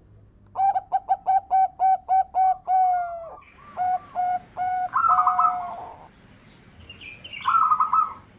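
Zebra dove (perkutut) singing: a quick run of about ten cooing notes, the last one drawn out, then a few more notes ending in a rolling trill, and another short trill near the end.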